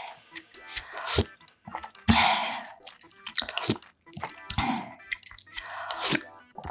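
Close-miked wet eating of budae-jjigae: chewing and slurping, with many short clicks and several louder wet bursts, the loudest about two seconds in and others near four and a half and six seconds.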